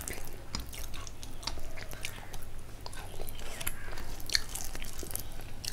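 A person chewing a mouthful of rice and curry close to the microphone, with short, wet mouth clicks and smacks scattered throughout.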